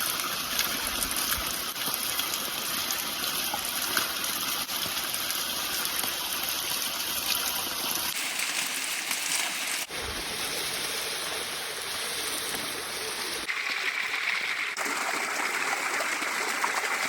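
Running stream water, a steady rushing noise whose character changes abruptly three times, about eight, ten and thirteen and a half seconds in.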